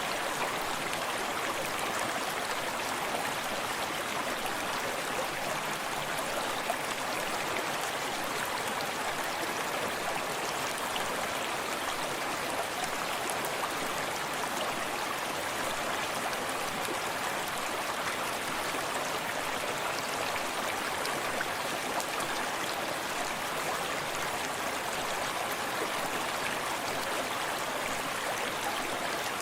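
Forest stream running steadily over stones, with small splashes and lapping close by; the water's rush is even and unbroken.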